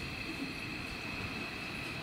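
Keio 8000 series electric commuter train pulling out of the station: a low rumble of the cars rolling, with a steady high-pitched whine from the traction motors over it.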